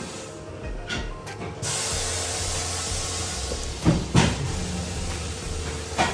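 A steady hiss starts about one and a half seconds in, over a low hum, with sharp knocks near the middle and again near the end.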